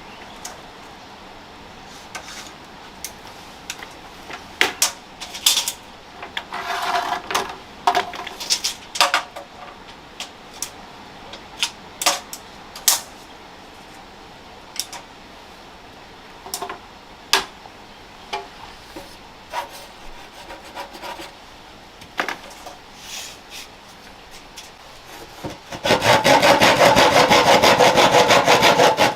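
Wood being worked by hand: scattered knocks, taps and scrapes, then about three seconds of loud, fast, regular rasping strokes that stop abruptly near the end.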